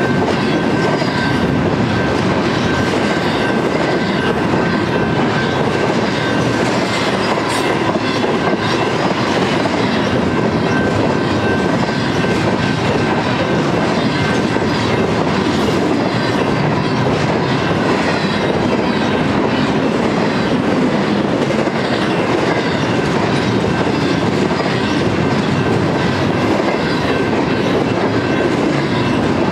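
Double-stack intermodal freight train's well cars rolling past: a steady rumble of steel wheels on rail with clickety-clack over the joints and a thin high wheel squeal.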